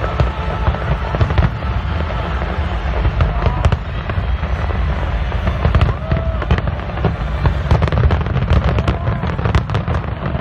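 Aerial fireworks display: a dense, continuous barrage of crackling bursts over a deep, steady rumble of shell explosions.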